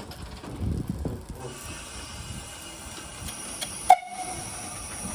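Narrow-gauge steam locomotive standing just uncoupled: some low rumbling, then a steady steam hiss from about a second and a half in, and a single sharp metallic clank with a short ringing about four seconds in.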